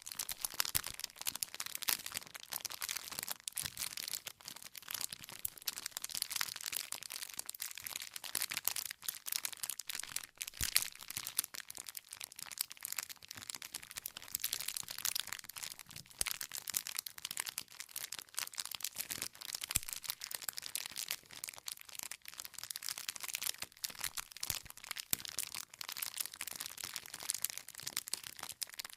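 Wood campfire crackling: a dense, irregular stream of small snaps and pops from burning logs.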